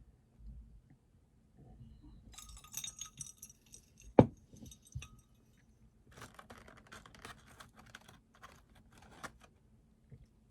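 Desk sounds at a study session: a short metallic rattle, then a single sharp knock about four seconds in, the loudest sound, then about three seconds of rapid key clicks from typing on a computer keyboard.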